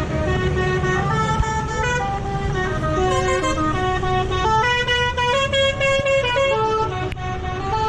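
A tune played in loud horn-like notes, stepping from note to note, over the steady low rumble of tractor engines in a passing festive tractor parade.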